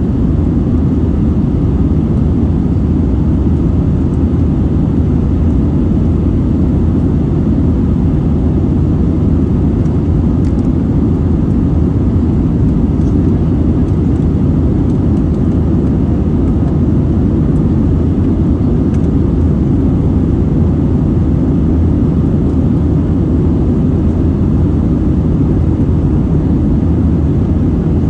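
Steady, loud Airbus A320 cabin noise heard from a passenger seat: an even low rumble of engines and airflow that does not change.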